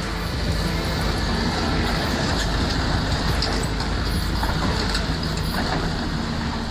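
Heavy machinery running: a steady low diesel-engine hum under constant loud mechanical noise.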